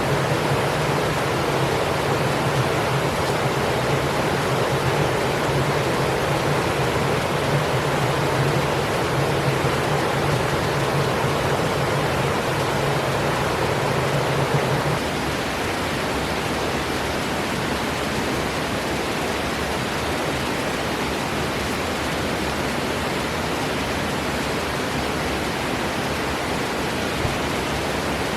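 Steady rush of a rain-swollen creek running over rocks. A low rumble in the water noise drops away about halfway through, and the rush carries on slightly quieter.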